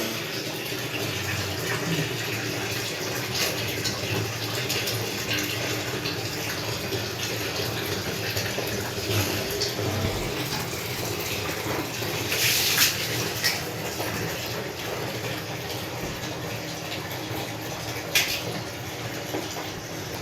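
Water running steadily, with a short clatter about twelve seconds in and a sharp knock near the end.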